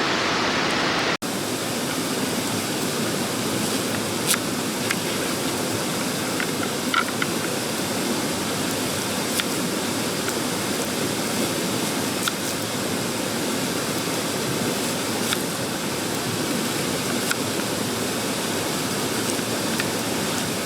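Mountain stream rushing steadily, with a few faint sharp clicks scattered through it. The sound drops out for an instant about a second in.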